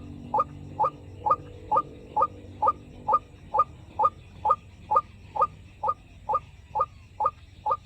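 White-breasted waterhen call: a short, slightly rising croaking note repeated evenly about twice a second, each note the same.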